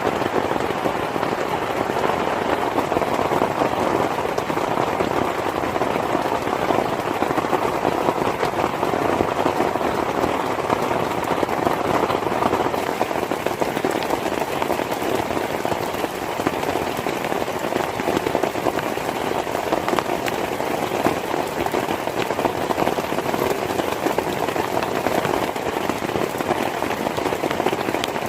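Heavy rain falling steadily, a dense even patter of drops striking a surface.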